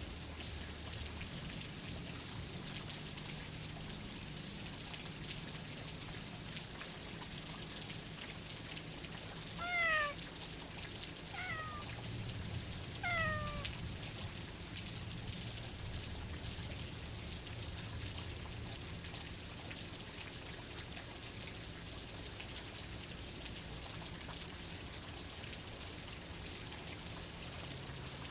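Steady rain, with a cat meowing three times in quick succession about a third of the way through; each meow is short and falls in pitch, and the first is the loudest.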